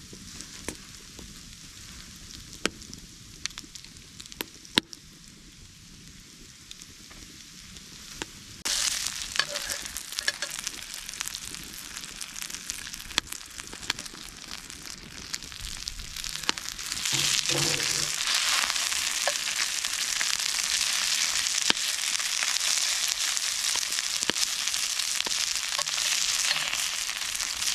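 Floured cod and salmon sizzling as they fry in butter and oil in a pan, a steady hiss with scattered crackling pops. The sizzle jumps louder about a third of the way in and swells again a little past halfway.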